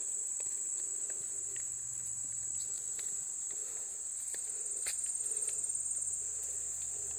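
A steady, high-pitched chorus of insects, with a few faint clicks.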